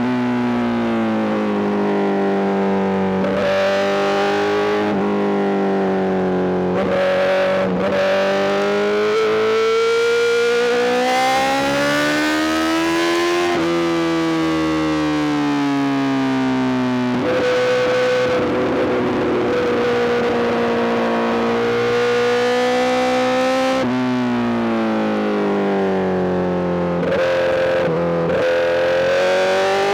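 Honda CBR1000RR-R SP inline-four through an Arrow GP full exhaust, under way. The engine note climbs with throttle and drops sharply at gear changes several times. In the middle it holds a steady pitch for several seconds of cruising.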